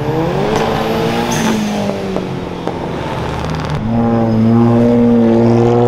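Car engines revving and accelerating. One engine note climbs in the first second and then falls away, and a louder one rises from about four seconds in.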